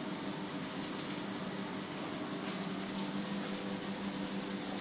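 Steady sizzle of onions frying in a pan, over a low steady hum.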